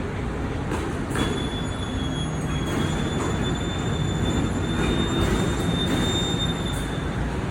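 Mercedes-Benz Axor garbage truck running, with a steady high-pitched squeal that starts about a second in and stops shortly before the end.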